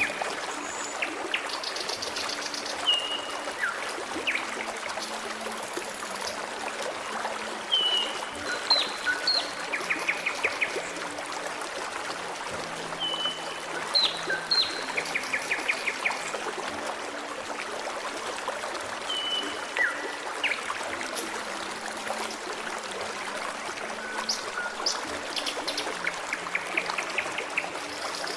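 A forest stream running steadily, with birds singing over it. A short whistled phrase and a fast buzzy trill come back every five or six seconds, mixed with scattered high chirps.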